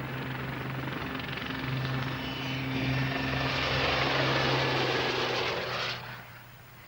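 Westland Lynx helicopter running, a steady low hum under a rushing rotor and turbine noise that grows louder toward a peak about four to five seconds in, then falls away abruptly about six seconds in.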